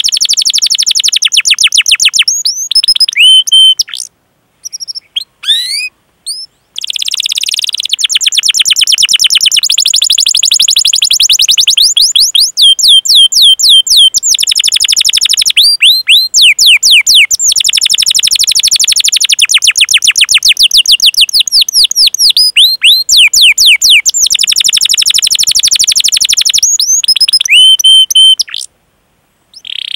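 Domestic canary singing long, fast trills (rolls) of rapidly repeated sweeping notes, loud, with a few short pauses and separate chirping call notes between the rolls.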